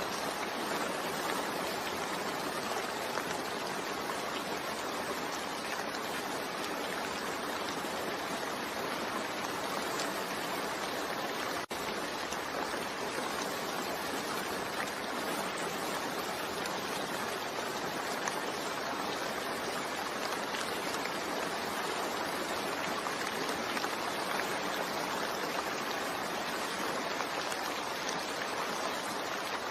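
Steady rain falling, an even hiss of many drops with no letup, broken only by a momentary dropout about twelve seconds in.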